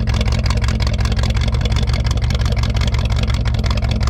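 1965 Chevrolet C10 pickup's engine idling steadily, a constant low rumble.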